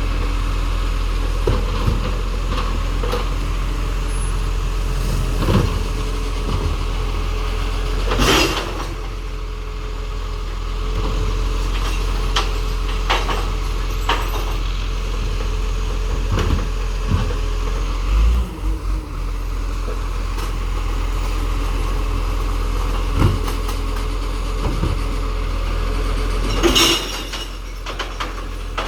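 Recycling truck engine running steadily, with scattered clunks and knocks. There is a loud crash about eight seconds in and another near the end, and a faint steady whine for several seconds after the first.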